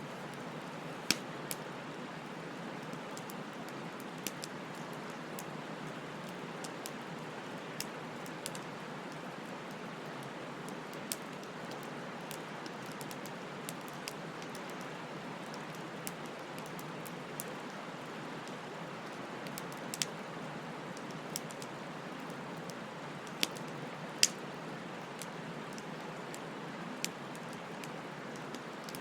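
Wood fire burning with a steady hiss and sharp, irregular crackles and pops, a few louder snaps about a second in and again around twenty and twenty-four seconds in.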